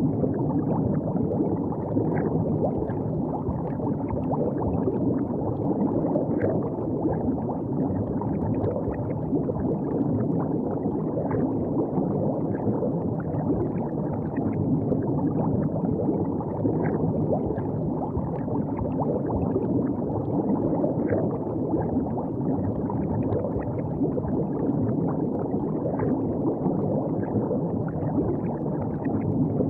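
River water flowing steadily, a low, even water noise with faint small splashes throughout.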